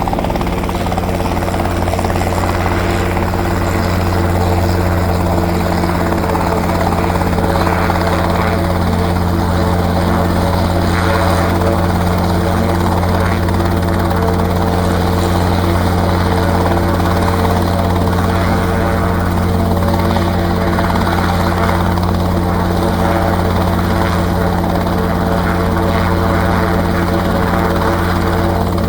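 Robinson R22 helicopter's rotor and piston engine running steadily, with a low rotor beat and engine drone.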